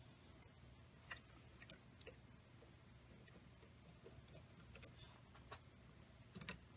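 Near silence over a low steady hum, broken by a few faint, scattered clicks and taps of small metal parts being handled.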